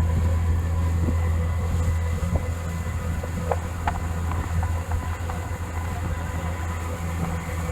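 Boat motor running steadily: an even, low drone, with a few faint clicks about halfway.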